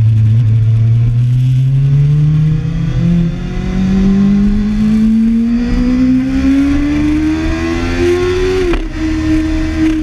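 2013 Kawasaki ZX-6R inline-four sport-bike engine accelerating hard under the rider, its revs climbing steadily through a gear. There is a brief dip about three seconds in, and a sudden break near the end where the pitch drops a little, as at an upshift. Wind rushes over the rider throughout.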